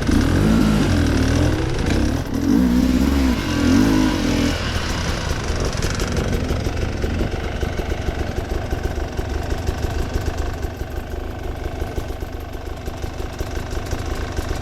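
Enduro motorcycle engine revving up and down for the first four or so seconds, then settling to a steady low-speed run near idle for the rest.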